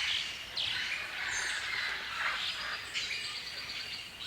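Birds calling: several sliding whistled notes over a noisy chattering, then a rapid run of repeated high notes in the last second and a half.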